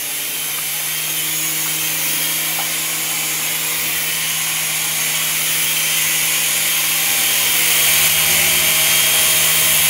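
Small electric motors and spinning plastic rotors of a Protocol Tigerjet toy RC helicopter hovering: a steady whirring hum with airy rotor hiss, growing gradually louder.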